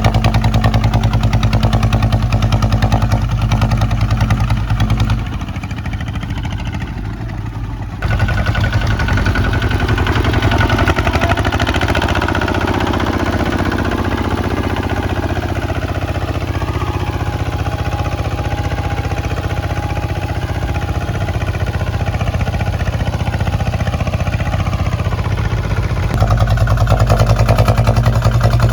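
Kubota ZT155 walking tractor's single-cylinder diesel engine running while plowing. It dips in level between about five and eight seconds in, then runs with a rougher, noisier sound until the heavy, steady beat returns near the end.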